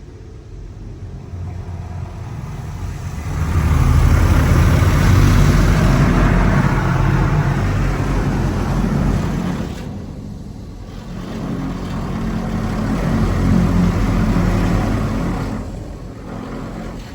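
PDQ LaserWash G5-S touchless car wash running over the car, a loud rushing noise that swells twice, a long swell then a shorter one after a brief dip, as its wash arm comes close.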